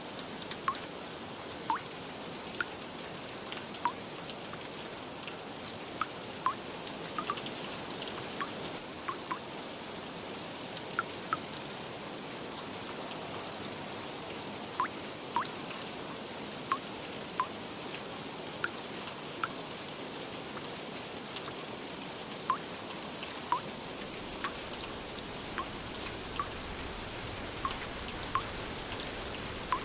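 Steady rain with large drops landing irregularly, each a short plink that drops slightly in pitch, about one or two a second.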